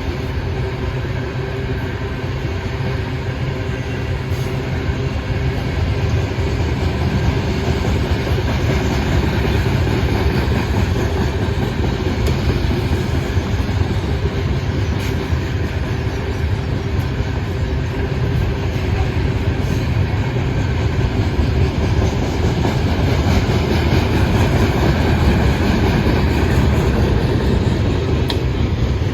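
Freight train rolling past, a steady loud rumble of wheels on the rails with some clickety-clack.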